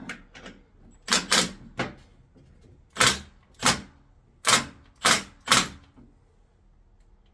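A 3/8-inch impact wrench hammering in about eight short bursts, driving a press to push the old upper control arm bushings out. The bursts stop about six seconds in.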